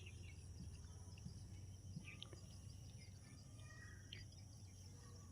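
Near silence: faint outdoor background with a low steady hum and a few faint short chirps, about two and four seconds in.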